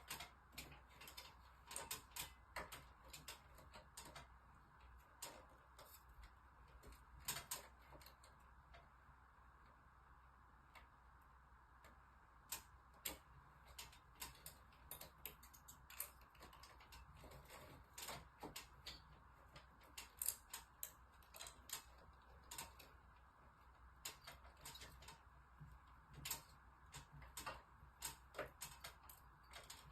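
Faint, irregular clicks and ticks scattered throughout, over a steady low hum.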